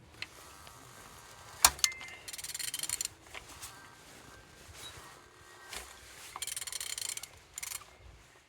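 Ratchet wrench clicking in two bursts of rapid ticks while the crankshaft of a Mercedes OM647 five-cylinder diesel engine is turned over by hand, with a sharp clack just before the first burst.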